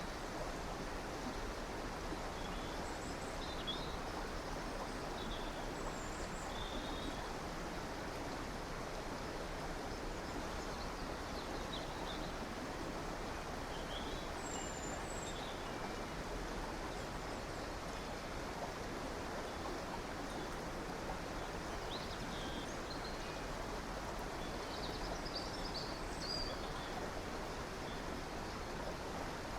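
A river or stream flowing steadily, with small birds giving short chirps here and there above the water.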